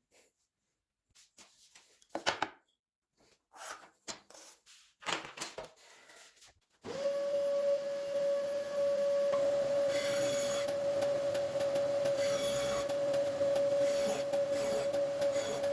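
A few scattered knocks and handling sounds, then about seven seconds in an electric power tool switches on and runs with a steady hum; from about nine seconds a rougher grinding or rubbing noise joins it, as of material being worked.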